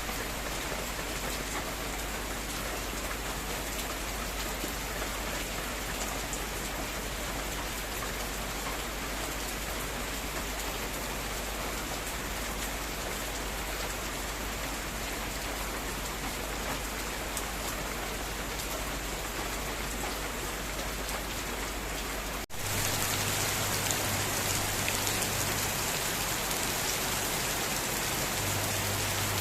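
Heavy rain falling steadily, an even hiss of drops on surfaces. About three-quarters of the way through it switches abruptly to a slightly louder stretch of rain.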